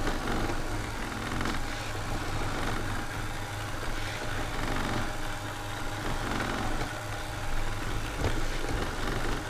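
ILIFE V7 robot vacuum running, its suction motor and brushes making a steady hum while it cleans.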